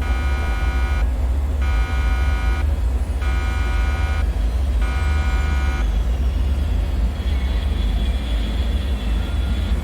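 A deep, steady rumbling drone, with an electronic alarm buzzer sounding four times, each blast about a second long, then stopping about six seconds in. After that, faint high tones and a slowly falling high whine remain over the rumble.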